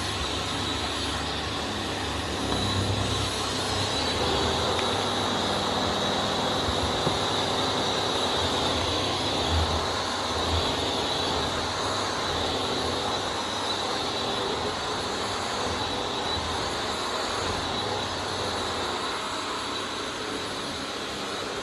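Vax Air Steerable Max upright vacuum cleaner running steadily: a constant high whine over a rushing noise, with an uneven low rumble.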